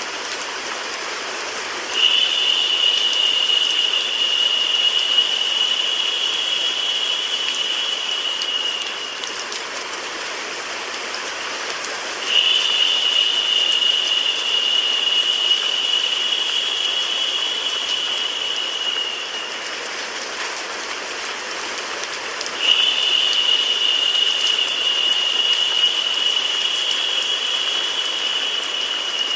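Rain sound mixed with white noise, a steady hiss. A brighter, higher hiss comes in suddenly three times, about every ten seconds, each time lasting about seven seconds and tapering off.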